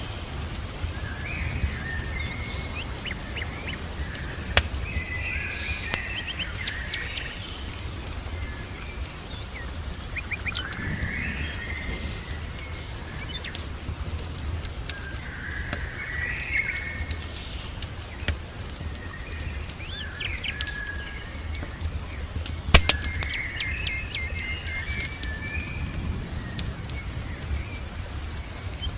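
Songbirds chirping and calling over and over, with a fire crackling in short sharp pops, the loudest about three-quarters through, over a steady low rumble.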